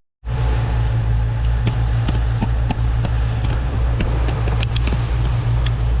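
Small fishing boat's outboard motor running steadily under way, a loud low rumble with scattered light knocks, starting just after a cut.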